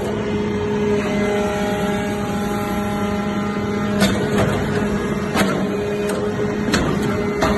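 Automatic metal chip baler running: a steady hum, with a higher whine for a few seconds after about a second in, then several sharp clicks or knocks.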